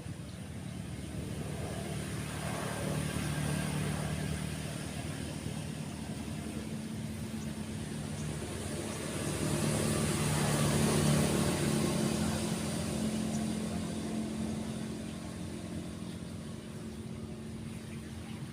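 Engine hum of motor vehicles passing on a nearby road, swelling up twice and fading, over a faint wash of surf.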